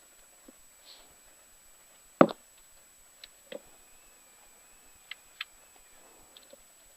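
A few scattered clicks and knocks, with one sharp, louder thump about two seconds in and a couple of pairs of clicks later on.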